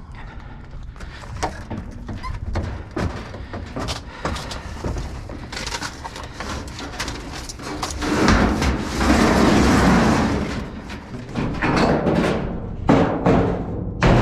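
Garage door panels being moved in a dumpster: a run of clattering bangs and knocks, with a longer rough scraping clatter about two-thirds of the way through and a couple of sharp bangs near the end.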